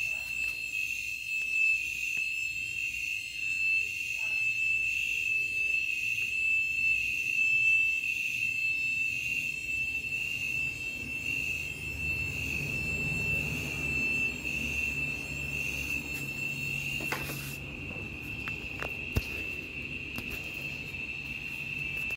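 A steady, high-pitched alarm-like tone, with a faint regular pulsing above it, that cuts off suddenly at the end. A low rumble comes up under it partway through.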